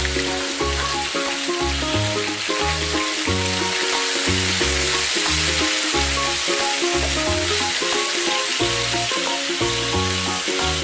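Small pieces of chicken sizzling in hot oil in a nonstick frying pan, stirred around with a spatula. Background music with a repeating bass line plays throughout.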